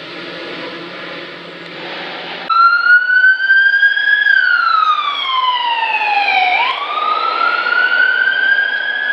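A steady whirring noise. About two and a half seconds in it cuts abruptly to a loud wailing siren tone that rises, slides down for a couple of seconds, jumps back up and climbs again.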